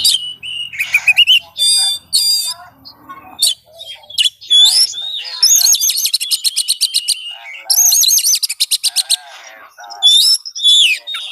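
Oriental magpie-robin (kacer) singing a loud, varied song: clear whistled phrases and quick rising and falling notes, broken by two long, fast rattling trills in the middle.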